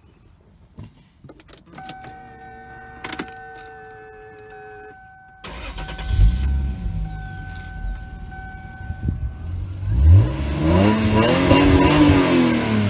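1998 Lexus SC300's 2JZ inline-six starting about halfway through and idling, then revved once near the end, its pitch rising and falling back. Before the start there are a few clicks and a steady electronic chime tone.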